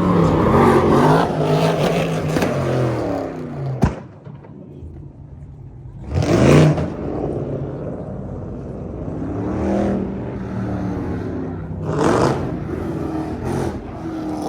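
A tuned car engine running and being revved, its pitch rising and falling, with sharp blips of throttle about six and twelve seconds in.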